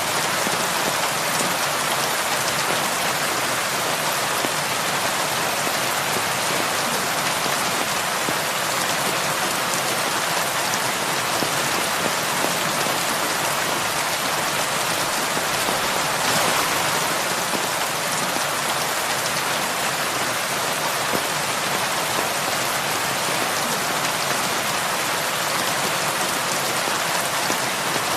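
Heavy rain falling steadily, a dense even patter of drops on surfaces, swelling briefly about halfway through.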